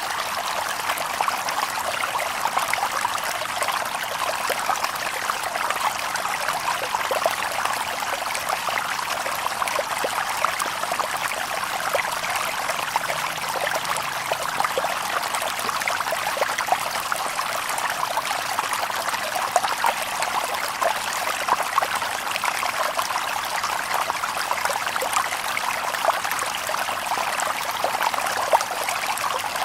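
Shallow river water babbling steadily over stones, a continuous bright trickling with many small splashes and gurgles.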